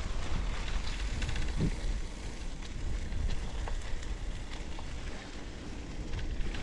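Bicycle tyres rolling over a gravel trail, with many small crackles from the stones, and wind rumbling on the microphone.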